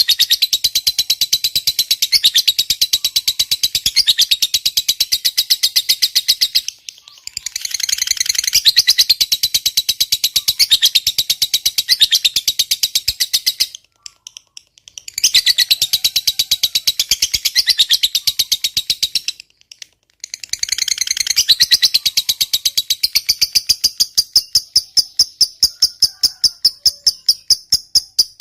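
Lovebird's long rapid chattering trill (ngekek panjang): fast, evenly repeated high notes in long runs, broken by three short pauses.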